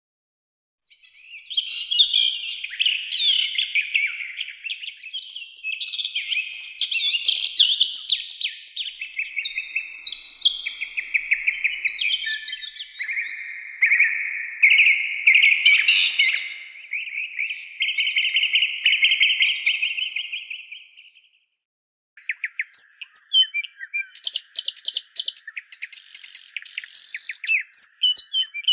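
Songbirds singing: a long, rapid run of warbled and trilled chirps. It stops about 21 seconds in, and after a brief break comes a different bird passage of sharp chirps and clicks over a steady thin tone.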